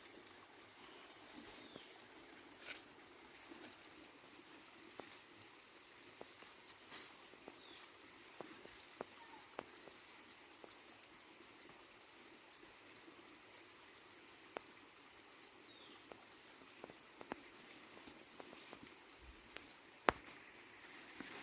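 Insects chirping outdoors: a steady high-pitched drone with a faster rhythmic chirping over the first few seconds. Scattered faint sharp clicks, with a louder one near the end.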